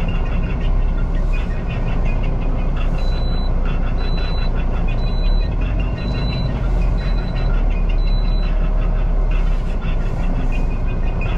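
Truck engine running steadily, heard from inside the cab, with a short high beep repeating about once a second.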